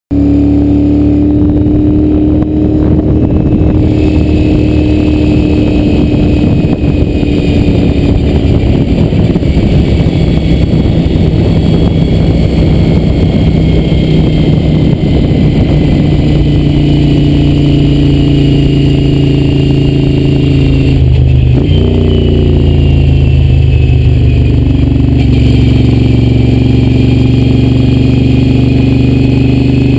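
Moto Guzzi V-twin motorcycle engine running under way, its note rising and falling with the throttle and shifting abruptly about twenty-one seconds in, with wind rushing over the microphone.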